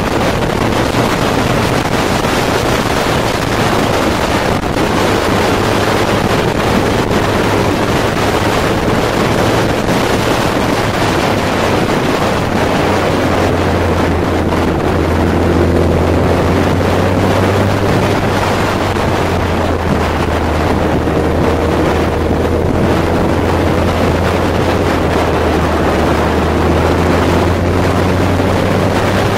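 Kawasaki Z1000's inline-four engine running at road speed under heavy wind noise on the microphone. The engine note shifts pitch a few times and grows stronger and deeper about halfway through.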